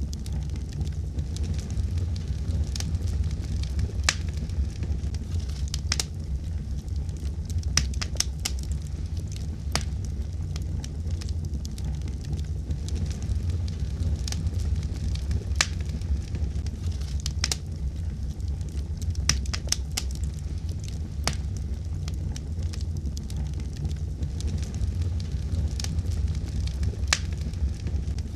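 Wood fire burning in a fireplace: a steady low rumble of flames with sharp, irregular crackles and pops from the burning wood.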